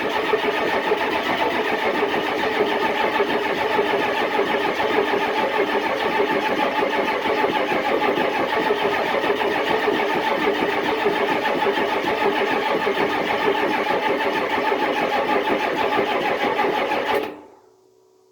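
Diesel truck engine being cranked over by its starter in the cold, turning steadily without catching, then stopping abruptly about 17 seconds in.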